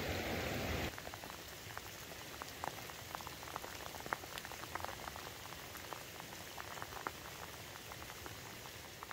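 Rain falling: a loud steady hiss of heavy rain for the first second, then lighter rain with many separate drops striking close by, each heard as a sharp tick. The sound starts fading near the end.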